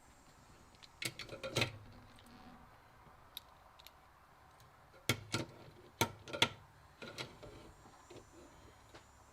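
Light metallic clicks and clatter from a chainsaw bar, chain and bar rail closer being handled, in two short clusters with a few single ticks between.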